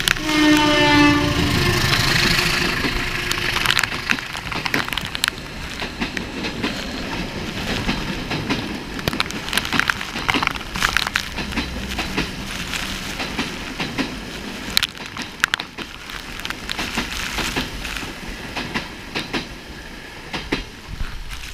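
An oncoming Indonesian passenger train's locomotive horn sounds once for about a second and a half. The locomotive and carriages then rush past on the adjacent track, with a loud rush of noise at first and then an irregular clatter of wheels over the rail joints.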